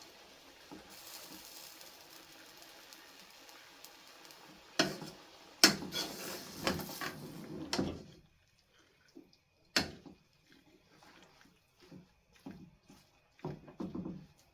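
Kitchen cookware and utensils being handled: several sharp clanks and knocks of pots and utensils with a noisy stretch of clattering about halfway through, over a faint steady hiss, then lighter scattered clicks.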